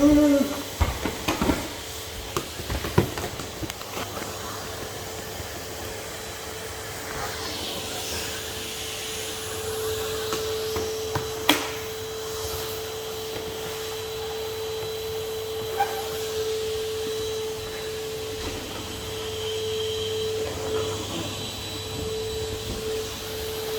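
Henry HVR200 620 W cylinder vacuum cleaner running with a steady motor hum and whine. A quick run of knocks, likely the tool and hose bumping surfaces, comes in the first few seconds, and one sharp click comes about halfway through.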